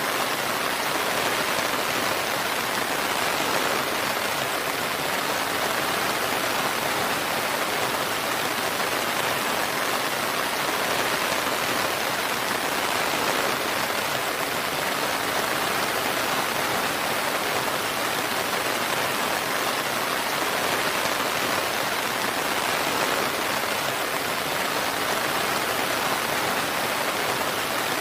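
Steady rain falling, a continuous even hiss with no thunder or other breaks.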